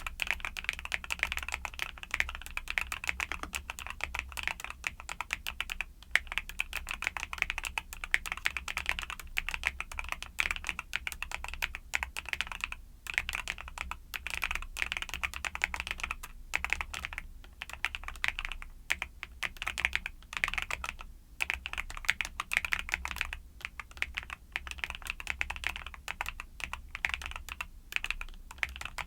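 Mechanical keyboard with YUNZII Cocoa Cream switches being typed on steadily, a fast run of key clicks broken by a few brief pauses, over a faint low hum.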